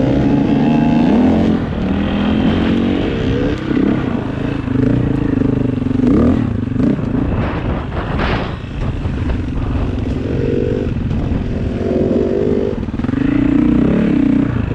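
Off-road dirt bike engine being ridden, its pitch rising and falling as the throttle is worked.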